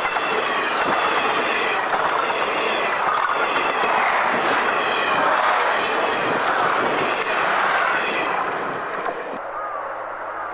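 Long multi-car diesel express train passing close at speed, its wheels clattering rhythmically over the rail joints amid a steady rush of noise and a high whine. About 9.4 s in the sound cuts off abruptly to a much quieter background.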